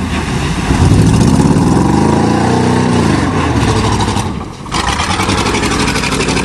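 1988 Chevrolet pickup's 305 small-block V8 revving hard under load, its pitch climbing for about two seconds and then falling. There is a brief dip about four seconds in before it runs on. It sounds like it is missing, a misfire.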